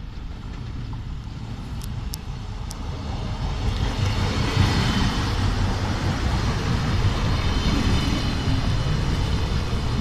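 Passenger train passing close along a station platform: the running noise of wheels on rails and the train's drive builds from about three seconds in and stays loud as the carriages go by.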